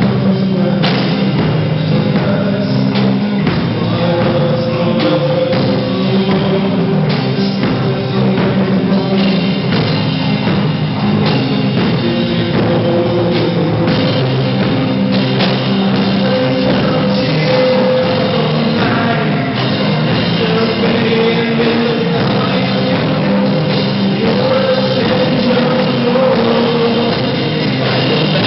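A rock band playing live, with loud distorted guitars, drums, and a voice singing over them. The sound is dense and steady throughout.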